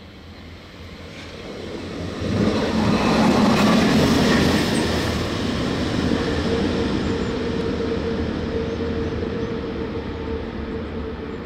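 A train passing: it builds up quickly to its loudest about three seconds in, then carries on as a steady rolling rumble. From about six seconds in, a steady high tone runs over the rumble.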